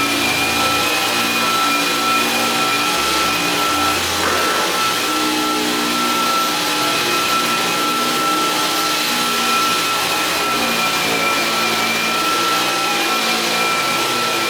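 Vacuum cleaner running steadily, a dense rushing noise with a constant high whine from its motor; it is switched on just before.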